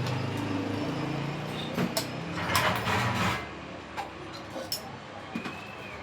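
Metal parts being handled: separate clicks and knocks, with a short scraping rattle about two and a half seconds in.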